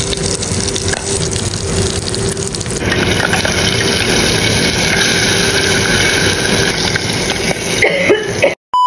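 Pieces of fish belly frying in hot oil in a pan, a steady, even sizzle. Near the end the sizzle cuts off and a single electronic beep begins.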